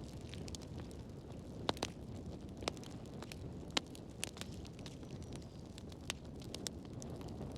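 Wood fire burning in a fireplace: a steady low rumble of flames with irregular sharp pops and snaps from the burning logs.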